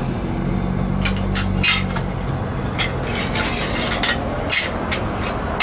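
Small steel pieces being handled and knocked together, with scattered irregular metallic clinks over a steady low hum.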